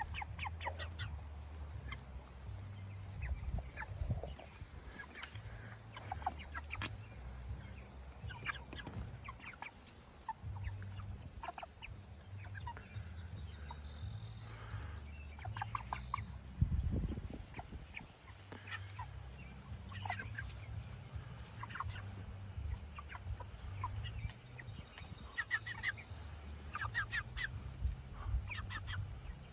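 A flock of meat chickens clucking, with many short calls scattered throughout over a steady low rumble. A louder low thump comes about halfway through.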